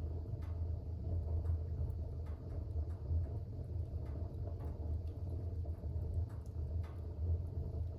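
Fire burning in a fireplace: a steady low rumble of the flames with faint, scattered small crackles and pops.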